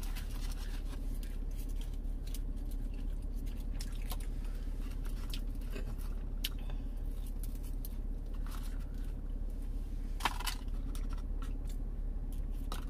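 Chewing of chicken nuggets, with scattered soft mouth clicks and rustles over a steady low hum in a car cabin; one sharper click or rustle about ten seconds in.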